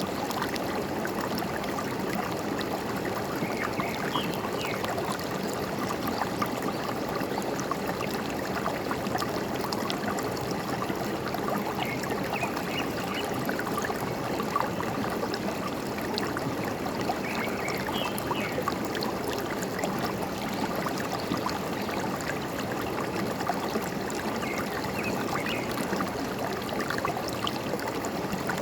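Forest stream babbling and trickling steadily over rocks, with brief faint bird chirps a few times.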